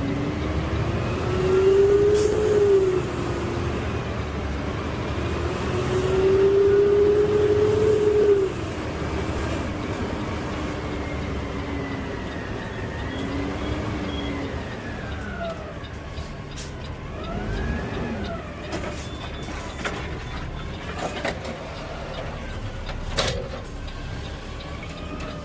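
CNG garbage truck pulling away, engine and transmission pitch climbing through the gears. The pitch rises to two loud peaks and drops sharply about eight seconds in as the truck eases off, then settles into steady driving with a few knocks and rattles near the end.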